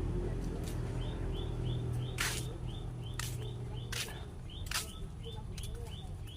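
A small bird chirping over and over, evenly, about three times a second. A few sharp rustling clicks come in between, and a low rumble fades out about halfway through.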